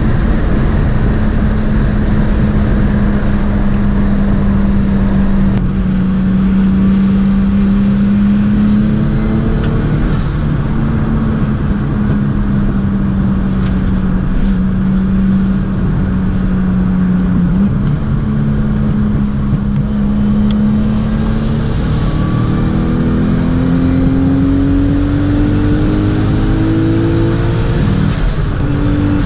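Turbocharged 2-litre 1G-FE inline-six in a straight-piped Lexus IS200 under way, its engine note holding fairly steady for most of the time. From about three-quarters in, the revs climb steadily under acceleration, then drop off sharply just before the end.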